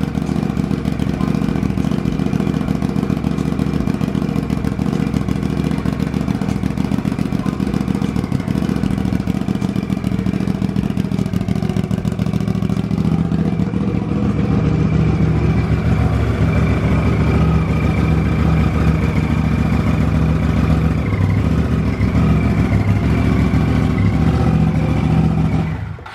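Turbocharged Polaris RZR 1000's twin-cylinder engine running steadily on its first start-up after the build, then cutting off suddenly near the end.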